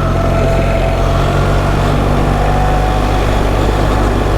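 BMW R 1300 GS boxer-twin engine running at steady revs while the motorcycle is ridden along a stony trail, with a thin steady whine above the engine note.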